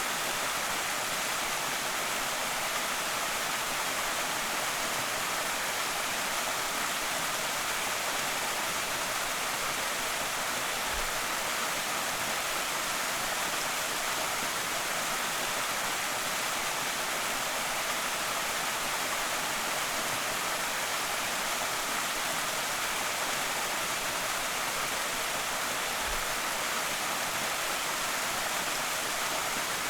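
Creek waterfall with a steady, even rush of falling water that does not change.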